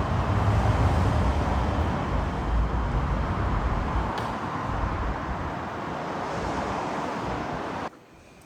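Loud, steady rumble of a passing vehicle, slowly fading, then cut off abruptly near the end.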